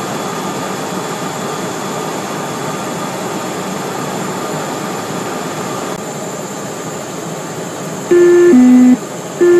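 Steady cockpit noise of a Cessna Citation Mustang's twin turbofans and airflow on final approach, easing slightly about six seconds in. Near the end a loud two-tone cockpit alert chime sounds, a high note then a lower one, and begins to repeat.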